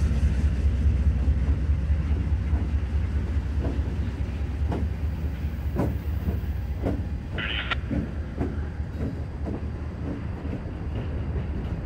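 Norfolk Southern diesel locomotives, including a GP38-2, rolling slowly past close by with a steady low engine rumble. The wheels give a run of irregular sharp clicks over the rail joints. There is a brief high-pitched sound about seven and a half seconds in.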